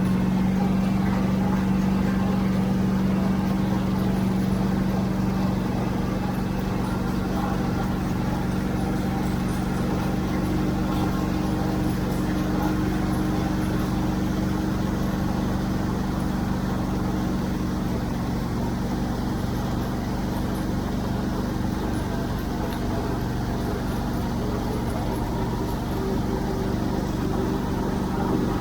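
Tractor engine running steadily at a constant speed, a little louder in the first few seconds.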